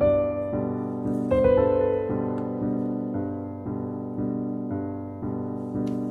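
Background piano music, slow and gentle, with notes and chords struck and left to ring.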